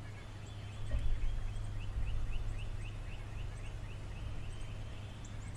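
A songbird singing a quick run of short chirps, about four or five a second, over a steady low hum, with a single click about a second in.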